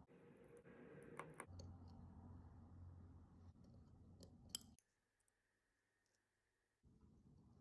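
Faint light clicks of small metal parts and tools being handled on a watch movement over a low background hum, with the sharpest click about four and a half seconds in. The sound then drops out to silence for a couple of seconds before the faint hum returns.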